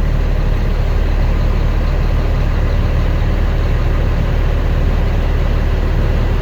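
Freightliner M2 truck engine idling steadily just after a cold start-up.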